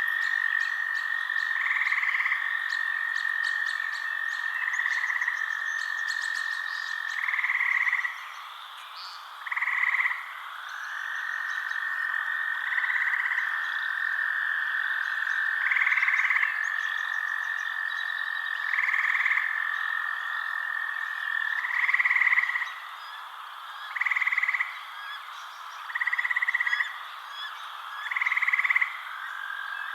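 Night chorus of frogs: a long, steady trill that breaks off now and then, with louder calls about a second long every two to three seconds, and faint high clicking in the background.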